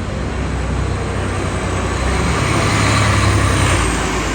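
Road traffic, with a vehicle passing close by that grows louder to a peak about three seconds in and then fades.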